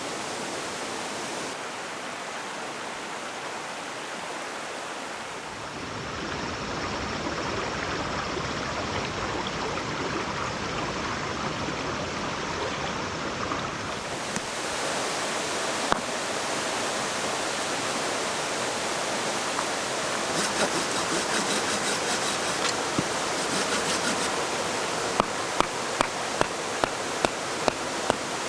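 Mountain stream rushing steadily. Near the end come a run of sharp ticks, about two a second.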